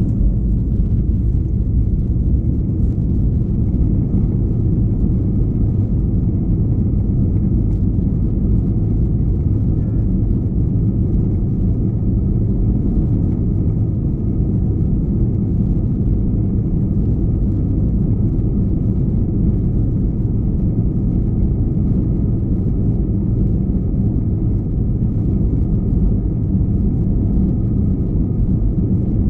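Steady low rumble inside the cabin of an Airbus A321-211, from its CFM56 engines and the airframe, with no change in pitch or level.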